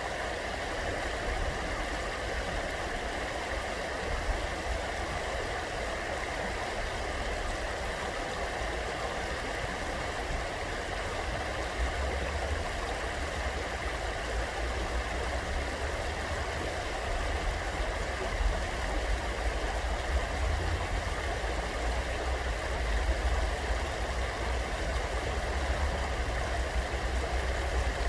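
Steady rushing of a flowing stream, with a low uneven rumble underneath.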